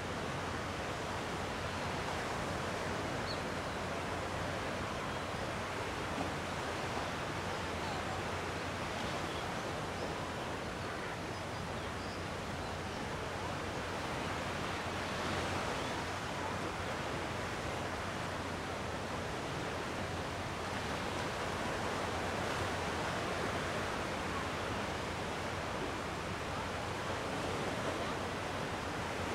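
Calm sea waves washing on the shore in a steady, even wash that swells slightly a couple of times.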